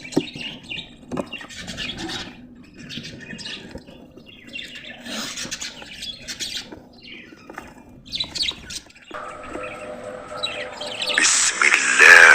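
Budgerigars chirping and chattering, a busy run of short, irregular calls that grows louder and denser near the end.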